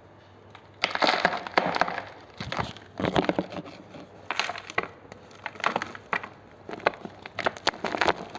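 Reformed blocks of red gym chalk being crushed: dry, crunchy crumbling in a series of squeezes about a second apart, each a cluster of small cracks, starting about a second in.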